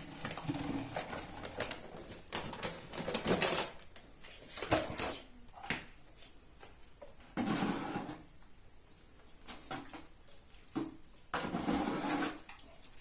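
Paper bag of plasterboard joint compound powder being handled and poured into a bucket of water: irregular rustles, taps and short bursts of pouring with pauses between them.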